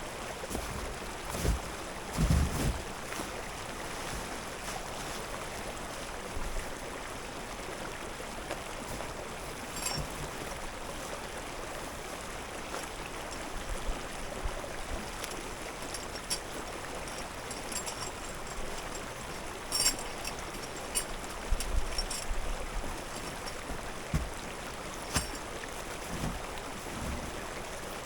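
Steady rushing of a flowing stream. Now and then a short knock or thump sounds over it, loudest about two seconds in and again about three quarters through.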